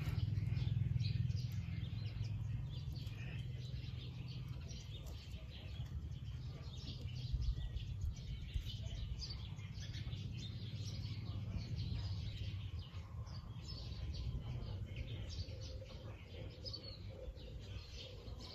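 Small birds chirping repeatedly in short notes, over a low rumble on the microphone.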